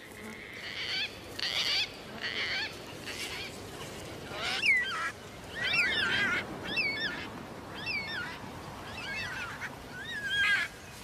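Gang-gang cockatoos calling: a run of short calls that bend up and down in pitch, about one a second, fainter for the first few seconds and louder from about four seconds in.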